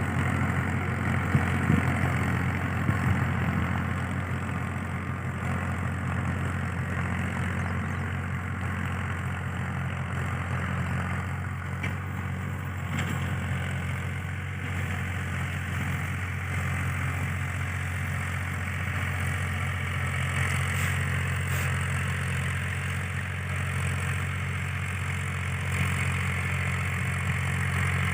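Powertrac 434 tractor's diesel engine running at a steady speed.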